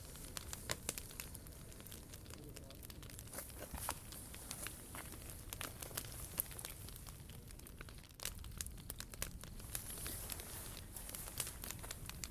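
Wood fire crackling and popping in a POMOLY T-BRICK Ultra fire pit: irregular sharp snaps, several a second, over a steady hiss.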